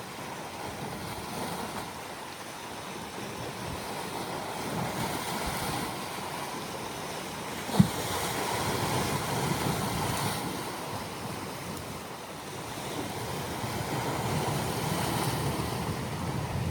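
Sea waves washing against the shore in slow swells that rise and fall every few seconds. A single short, sharp knock sounds about eight seconds in.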